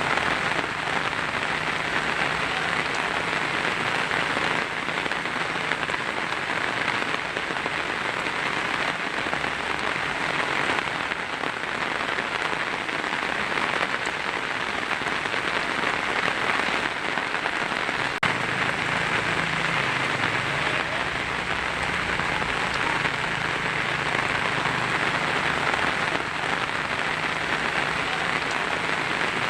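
Heavy rain falling steadily on a tin roof, a dense, even patter with no break.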